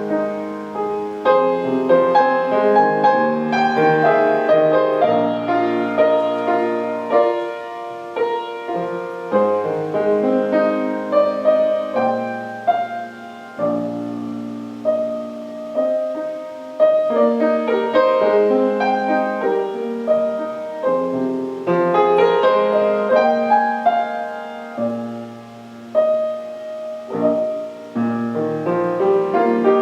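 Solo piano music: a slow, melodic piece of struck chords and melody over low bass notes held for a couple of seconds at a time.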